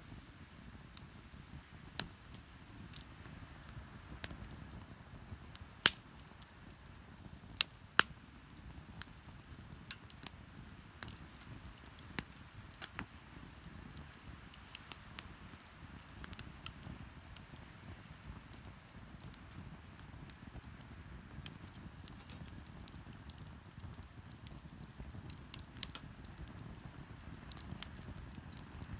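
Beach bonfire crackling with scattered sharp pops, three loud ones about six to eight seconds in, over a steady low rush of waves.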